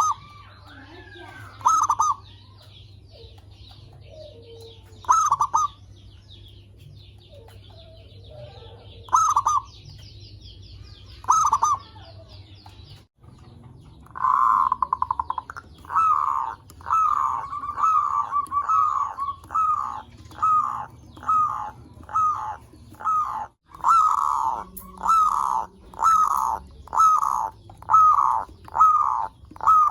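Zebra doves (perkutut) cooing. A few scattered coos come over a high, fine trill in the background, then after a break about halfway in, a quick run of coos about one a second.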